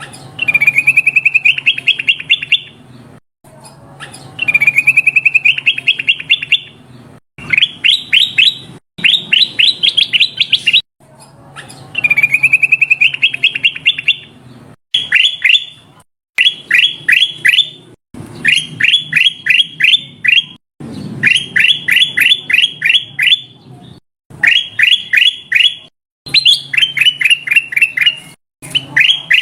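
Kutilang emas (ruby-throated bulbul) calling: repeated bursts of quick, sharp chirps, each run of notes lasting a second or two with short pauses between. The bursts come one after another throughout, over a faint low hum.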